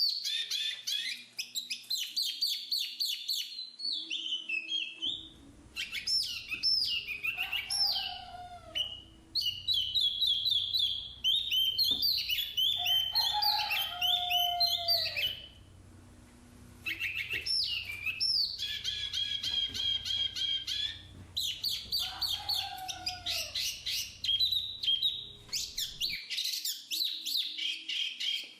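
Black-capped babbler singing: long runs of rapid, high chattering and trilled phrases, broken by brief pauses, with several clear slurred whistles that fall in pitch.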